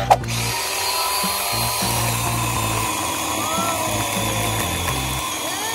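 Toy chainsaw's button clicked, then its battery-powered electronic chainsaw noise running steadily. Background music plays underneath.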